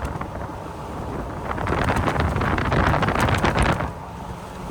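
Wind rushing over the microphone of a doorless Jeep Wrangler driving on a snow-covered road, over the low rumble of the engine and tyres. The rush swells in the middle and eases near the end.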